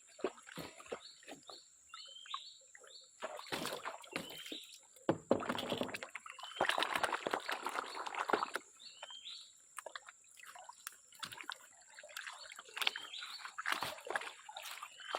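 Water sloshing and splashing in irregular spells, loudest from about five to eight and a half seconds in, with scattered knocks and short rising chirps.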